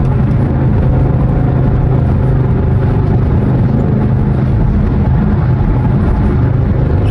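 Dodge R/T's 5.7 L Hemi V8, with the resonator and mid mufflers cut out, running at a steady light throttle with a deep, even exhaust drone.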